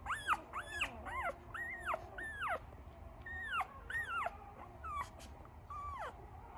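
Young Australian Shepherd puppies whining and whimpering: about ten short, high-pitched cries, each rising and then falling, some overlapping.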